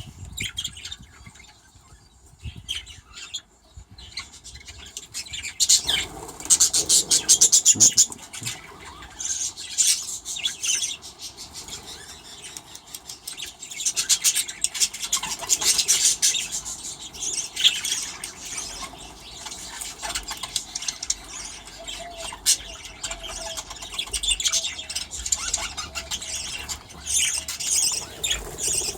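A flock of budgerigars chattering and chirping in an aviary, with many short overlapping calls. Quieter for the first few seconds, then busy and loud from about six seconds in.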